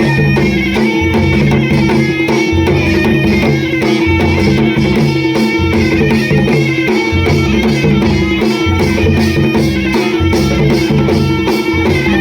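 Loud Adivasi timli folk dance music: a steady beat of low drum strokes with fast, even cymbal-like ticks over a held drone note.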